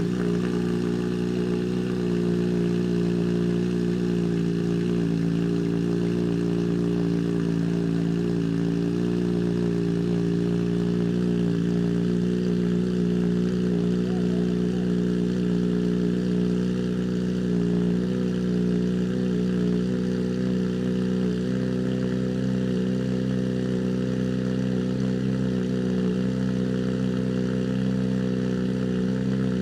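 Kawasaki Z H2's supercharged inline-four idling steadily through an aftermarket blacked-out slip-on exhaust.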